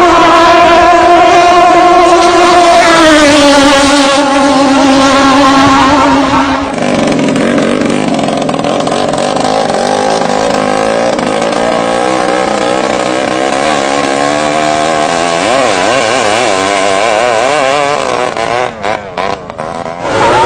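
Racing boat engine running hard at high revs; its note steps down a little about three seconds in. At about seven seconds it gives way to a wavering blend of engine notes, and the sound briefly cuts in and out near the end.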